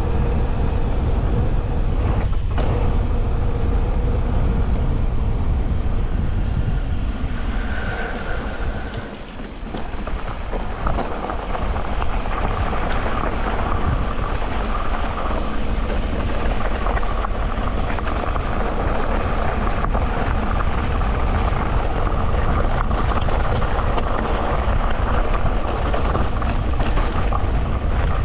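Electric mountain bike ridden over a dirt trail: a steady rumble and rattle from the tyres and frame on rough ground. It eases briefly about nine seconds in.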